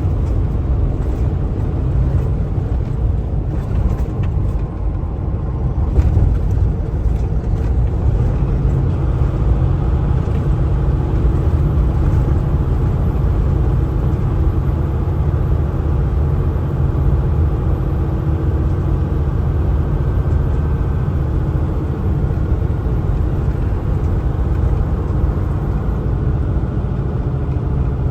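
Kenworth T680 semi-truck driving, its diesel engine and road noise making a steady low rumble.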